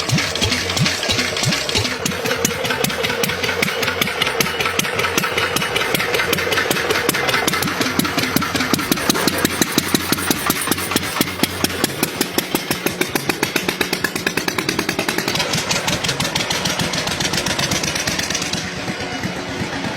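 Small motorcycle engine of a home-built motorcycle running, with a rapid, regular firing beat.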